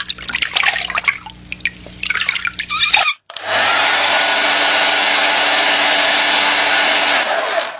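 Short, irregular high chirps over a steady low hum for about three seconds. After a brief break comes a loud, steady rushing noise lasting about four seconds that cuts off near the end.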